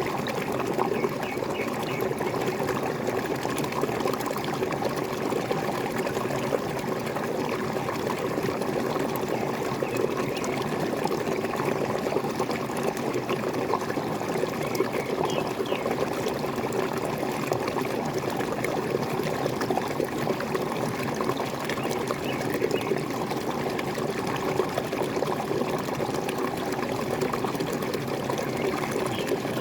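Small waterfall splashing and gurgling steadily, an unbroken rush of falling water.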